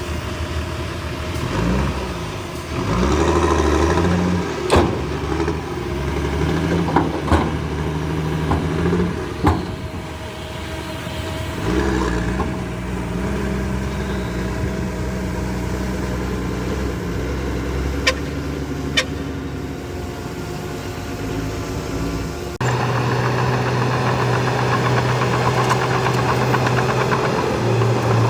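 Heavy diesel engine of earthmoving machinery running under changing load, its pitch shifting up and down, with several sharp metallic clanks. About two-thirds of the way in, the sound switches abruptly to a louder, steadier engine note.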